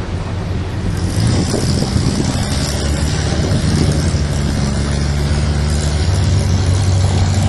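Car engine running at steady revs, with a high hiss joining about a second in.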